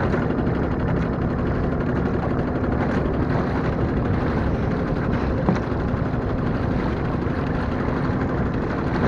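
A 1915 Evinrude Rowboat Motor, a single-cylinder two-stroke outboard, running steadily with the boat under way. A single brief knock about five and a half seconds in.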